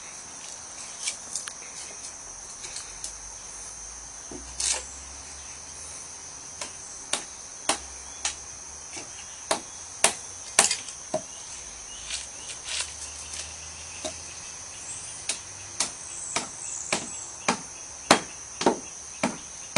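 Sharp knocks of a hammer tapping shims into place under a jacked-up floor, spaced out at first and coming more often in the second half. A steady high insect trill runs underneath.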